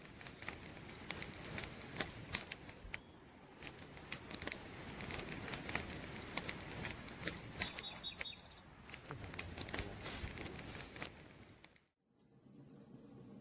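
Campfire crackling: wood burning with dense, irregular pops and snaps over a soft hiss. A few faint high chirps come in around the middle, and the sound drops out briefly near the end.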